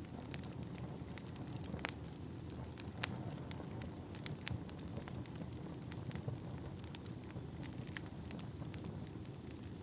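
Wood fire burning in a fireplace: a steady low rumble of flame with sharp, irregular crackles and pops from the burning logs. In the second half a faint high whistle comes in, sliding slightly down in pitch.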